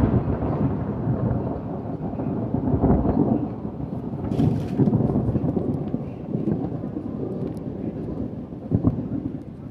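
Thunder rumbling and rolling close by, swelling and fading several times, with a sharper crack about four and a half seconds in.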